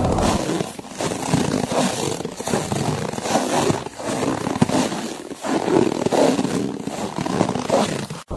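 Footsteps crunching through snow, a run of crunches broken by short gaps about every second and a half.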